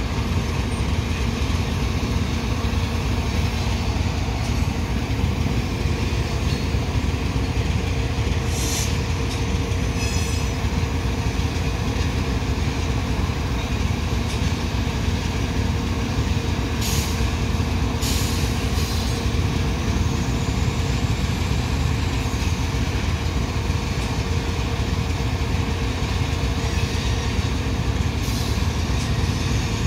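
Loaded coal train's hopper cars rolling past with a steady low rumble, over the steady hum of a diesel locomotive running close by. Short high wheel squeals and clicks come through a few times.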